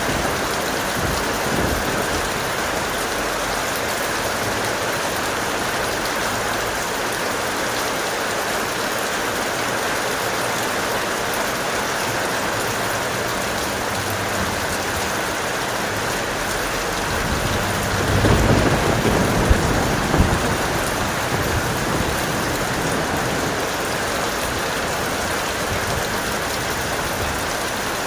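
Heavy, steady rain. About two-thirds of the way in, a low roll of thunder rises and fades over a few seconds, with a couple of sharp cracks in it.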